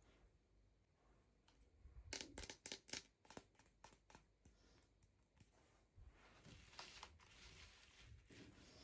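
Toy packaging being handled and torn open, with a quick run of sharp crinkling crackles about two seconds in and faint rustling afterwards.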